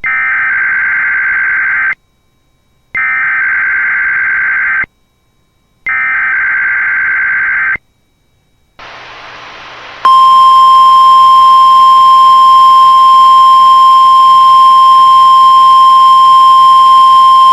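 NOAA Weather Radio weekly test signal: three bursts of SAME digital header data, each a warbling data tone about two seconds long, with short silences between. Then radio hiss comes in, and about ten seconds in the steady 1050 Hz warning alarm tone starts and holds.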